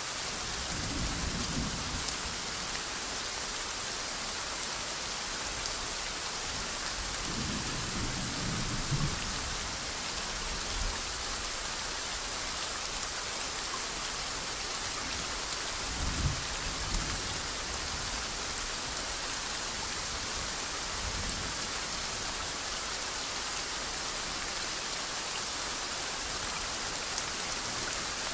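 Steady soft rain, with several short low rumbles of thunder: about a second in, a quarter of the way through, just past the middle, and again a little later.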